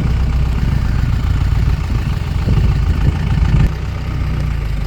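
Vehicle engine idling with a steady low rumble that eases off slightly about three and a half seconds in.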